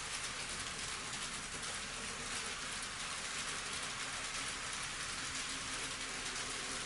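N-scale model train running on the layout track: a steady, even hiss of small metal wheels rolling on the rails, with a faint hum underneath.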